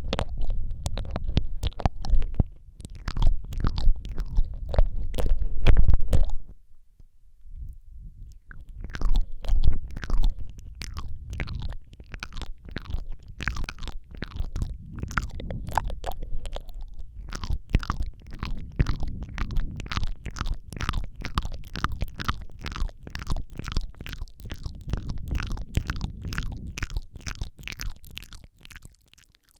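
ASMR mouth sounds close on a Rode microphone: wet clicks, smacks and licking noises, with heavy low thumps for the first six seconds, a short lull, then a steady run of quick wet clicks, several a second.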